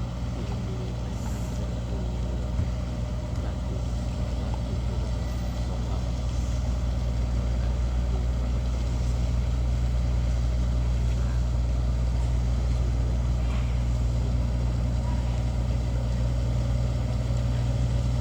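A large engine running steadily with a low drone, slowly growing louder as it comes closer.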